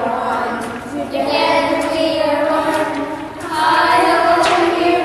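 A group of children singing together, in two long sustained phrases.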